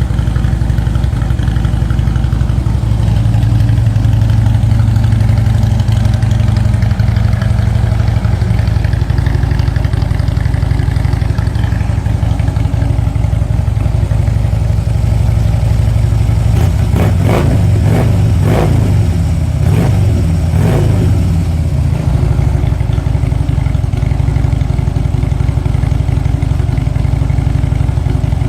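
Harley-Davidson Street Glide V-twin idling through 4-inch V-Twin Manufacturing slip-on mufflers. About two-thirds of the way through, the throttle is blipped about four times in quick succession, then the engine settles back to idle.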